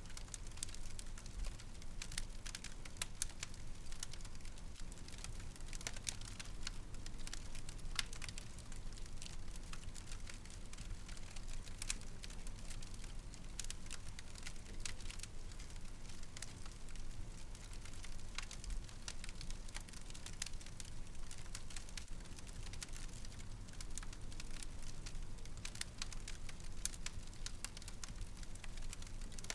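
Wood fire in a fireplace crackling, with irregular sharp pops several times a second over a low steady rumble of burning.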